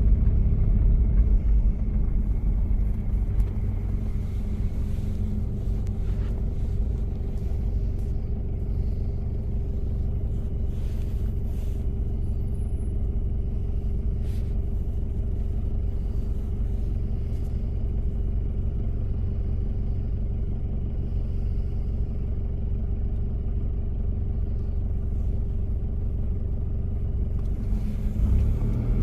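1993 Toyota Prado diesel engine running at a steady cruise, a low rumble with a steady drone. Near the end the engine note climbs as it accelerates.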